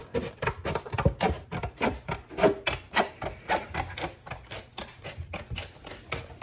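The trimmed edge of a plastic costume-armour hemisphere being abraded flat by hand: quick back-and-forth rasping strokes, about five a second.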